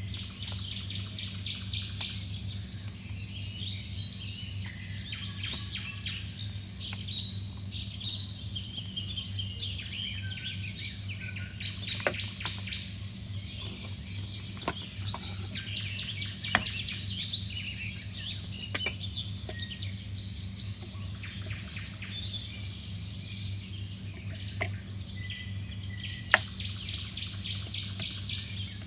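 Small birds chirping and twittering without pause, over a steady low hum, with a few sharp clicks scattered through.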